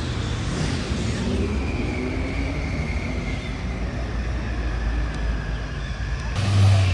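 Vehicle engines running on the road, a steady low rumble. A deeper, louder engine surge comes near the end.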